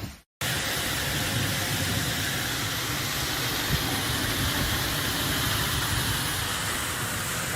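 Steady hiss of rushing storm water, even and unbroken, starting just after a brief cut-off near the start.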